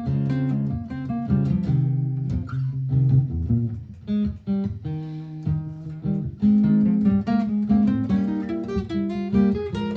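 Martin GPCPA4 acoustic guitar played through a looper: picked notes and strums over layered, repeating guitar parts.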